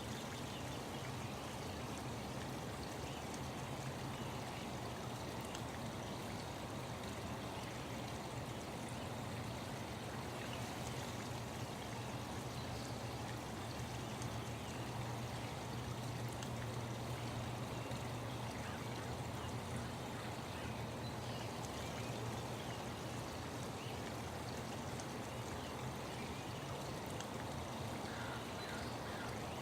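Steady running water, like a stream flowing, as a continuous nature-sound background.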